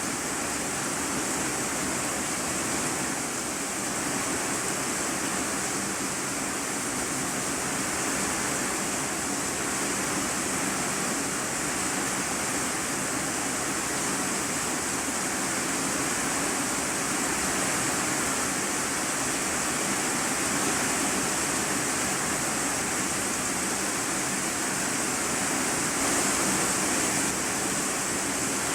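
Heavy rain drumming steadily on a corrugated iron-sheet roof, heard from the room beneath as a dense, even hiss.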